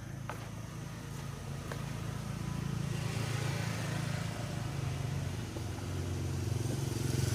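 A motor vehicle's engine running steadily, slowly growing louder as it comes closer.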